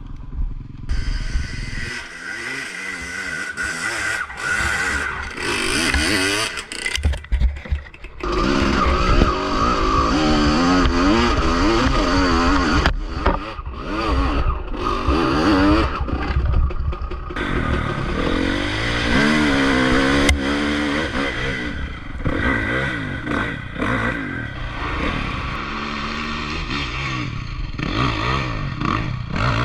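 Honda motocross dirt bike engine revving hard, its pitch rising and falling again and again as the throttle is opened and closed, with a few brief drops in the sound.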